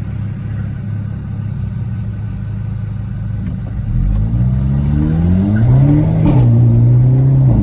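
Hyundai Elantra N's turbocharged 2.0-litre four-cylinder running steadily, then accelerating hard from about four seconds in, its pitch climbing until a quick gear change about six seconds in, after which it pulls on at a louder, steady note.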